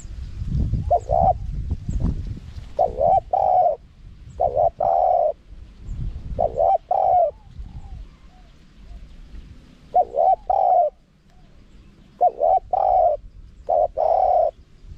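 Spotted dove cooing: repeated phrases of two or three deep, pitched coos, each phrase about a second long with pauses between. A low rumble sits beneath in the first few seconds.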